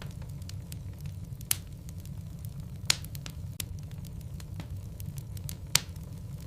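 Wood logs burning in a fireplace, crackling. A low steady rumble runs under scattered small pops, with three louder snaps: about one and a half seconds in, about three seconds in, and near the end.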